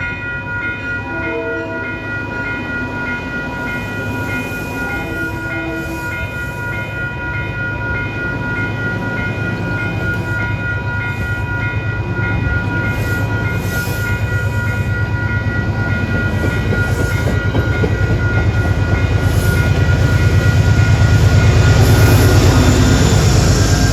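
Train approaching on the rails, its low rumble growing steadily louder and peaking near the end. Steady ringing tones from a grade-crossing bell carry on through it.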